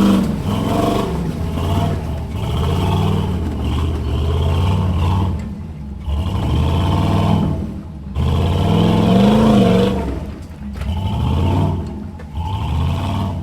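Off-road 4x4's engine revving in repeated bursts, its pitch rising and falling as it is throttled up and let off.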